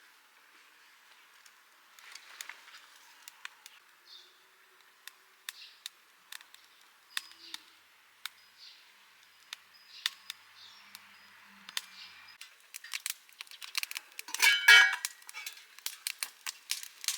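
Scattered light clicks and knocks of cooking gear being handled, growing busier near the end, with one louder clatter about fourteen seconds in.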